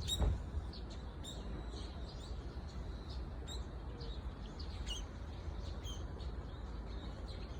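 Small birds calling with short, high chirps, several times throughout, over a steady low rumble. A brief low bump comes right at the start.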